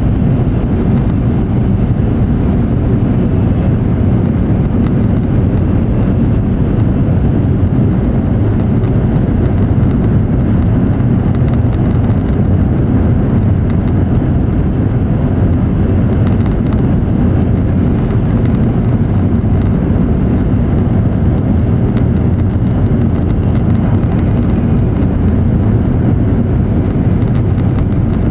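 Steady running noise inside an E7 series Shinkansen car at speed: an even, deep rumble, with faint scattered ticks above it.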